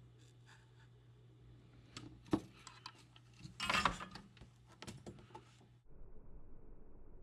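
Small hand tools handled at a workbench during micro-soldering: a sharp click a couple of seconds in, then about a second of scratching or scraping and a few light ticks, over a low steady hum that cuts off near the end.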